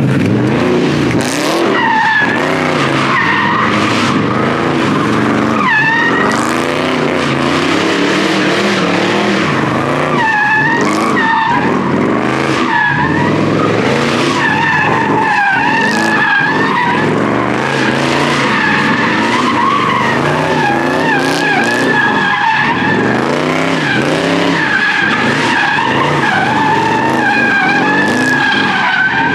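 A car doing a sustained burnout: the engine is held at high revs, rising and falling, while the rear tires spin and squeal continuously with a wavering pitch.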